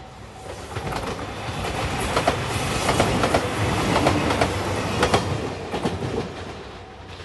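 Anpanman-painted JR Shikoku express train passing close by, its wheels clicking over the rail joints; the sound swells to its loudest in the middle and fades away near the end.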